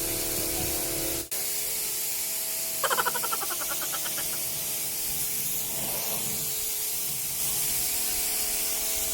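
Pressure washer jet spraying water onto a car to rinse off the soap: a steady hiss with a steady hum underneath. The spray cuts out for an instant about a second in, and a short warbling high-pitched sound comes through around three seconds in.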